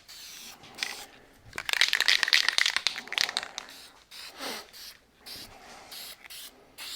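Masking tape being pulled off the roll with a loud, rapid crackling rip lasting over a second, starting a little under two seconds in, followed by shorter rustles and scrapes as it is pressed on.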